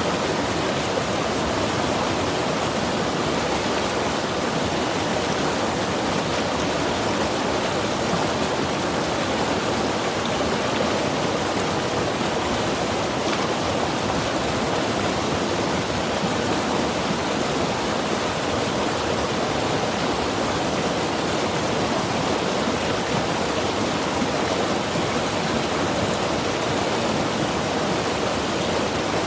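Mountain river rushing steadily over rocks: an even, unbroken water noise.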